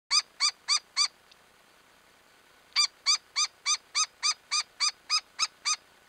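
A bird giving a series of loud, evenly spaced, ringing call notes, about three a second: four notes, a short pause, then eleven more.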